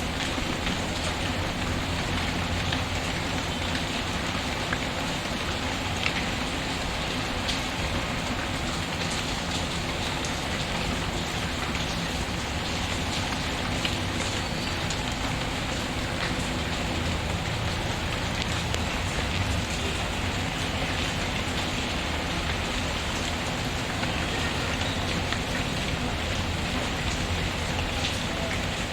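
Steady rain mixed with a crackling wood fire: an even wash of rain with scattered small pops through it.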